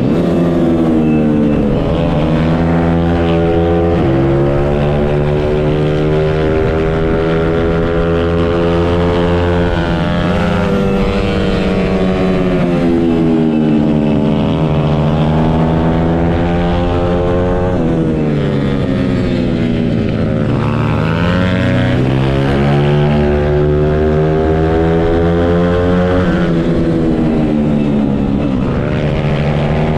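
Stomp 140 pit bike's single-cylinder four-stroke engine heard onboard at race speed. Its pitch climbs steadily, then drops sharply several times as it changes gear and slows for corners.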